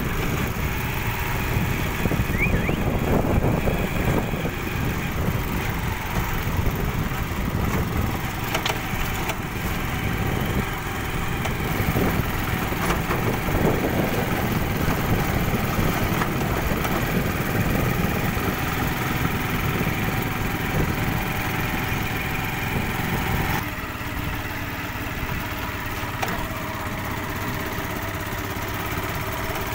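Motorcycle engine running steadily while riding, under a heavy low rumble. The sound drops slightly about 23 seconds in.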